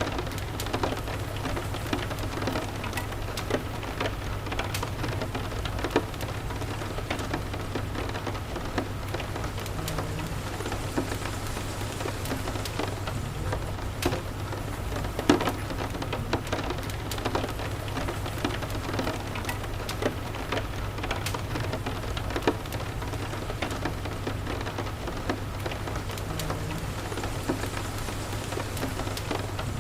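Steady rain falling, with the irregular sharp pops and crackles of a wood fire scattered through it. A constant low rumble runs underneath.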